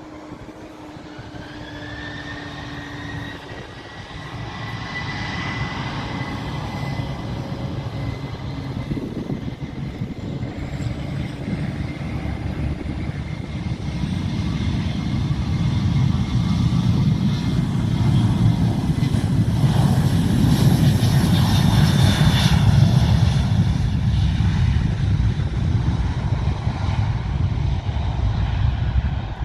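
An airplane's engines growing steadily louder as the plane passes close by, peaking about twenty seconds in and then easing a little. A high turbine whine is heard over the rumble in the first several seconds.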